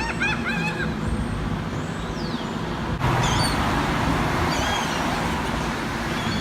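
Seagulls calling, a quick run of short rising-and-falling notes at the start and a few more calls later, over steady street traffic. The traffic gets louder suddenly about three seconds in, as of a vehicle passing close.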